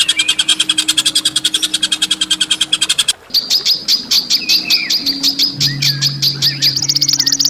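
A songbird's harsh, rapid calls: a fast rattling string of about ten sharp notes a second that breaks off about three seconds in, then a slower string of sharp notes, about five a second, that jumps higher in pitch near the end.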